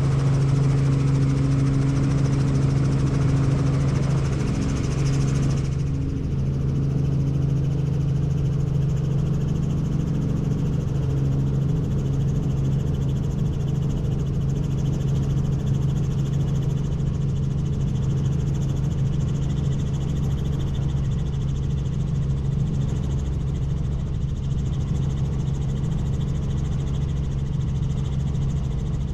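Helicopter in flight: a steady low drone of rotor and engine, with a higher hiss that drops away suddenly about six seconds in.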